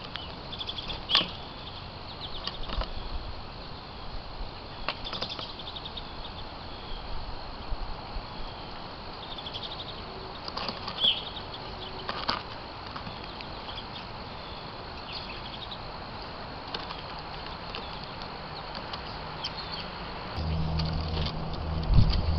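Small birds chirping in short, high notes, with brief wing flutters and sharp taps now and then over a steady background hiss. A low hum comes in near the end.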